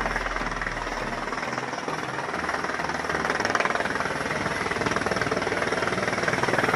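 Helicopter running nearby: a steady, rapid beat from the rotor blades over a constant engine hiss. A low rumble underneath drops away about a second and a half in.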